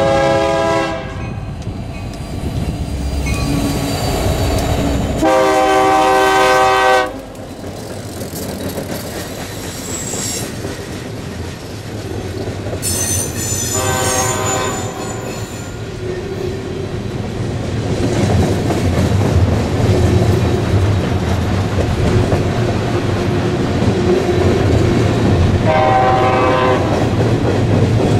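Diesel freight locomotive horn sounding several blasts: one at the start, a longer one about five seconds in, more around thirteen to fourteen seconds, and a shorter one near the end. Between and under them, the freight cars roll past with wheel clatter and rumble that grows louder in the second half.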